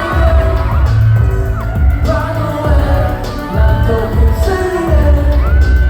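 Live pop song played through a hall's sound system: a heavy pulsing bass beat under a melody with long held, sliding notes and singing.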